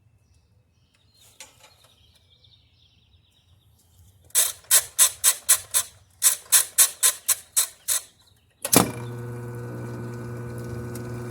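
A quick run of about fifteen sharp squeaks, about four a second, then a replacement Whirlpool washer motor, tested on its own outside the machine, switches on suddenly and runs with a steady hum. The steady running shows this motor works, unlike the original one with a burnt winding.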